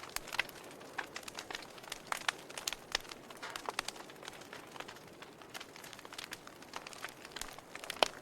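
Wood fire crackling in a fireplace: irregular snaps and pops over a soft steady hiss, with one sharp, loud pop near the end.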